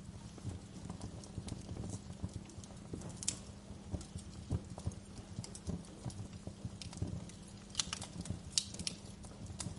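Wood fire crackling in a fireplace: a steady low rumble with irregular snaps and pops, a few sharper pops about a third of the way in and near the end.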